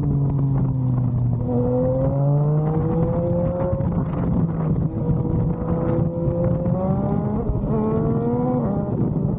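Yamaha MT-09's inline three-cylinder engine through an SC Project aftermarket exhaust, running under way. The note sags, climbs and holds, then climbs twice more with quick drops near the end as the throttle comes on and off.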